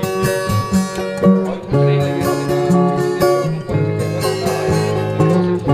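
Instrumental break in a Brazilian música caipira song: a viola caipira picks a melody of plucked notes over guitar accompaniment.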